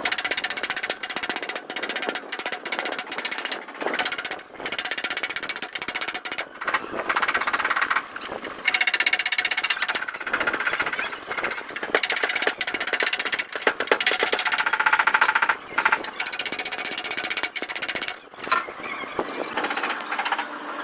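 A power tool rattling rapidly in repeated bursts, broken by short pauses.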